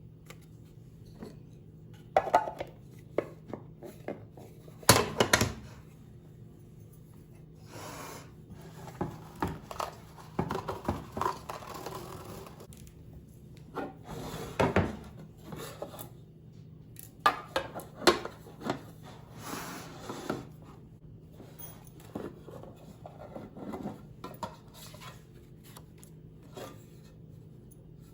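Objects being handled by hand: scattered knocks and clinks with short stretches of rubbing and scraping, over a faint steady hum.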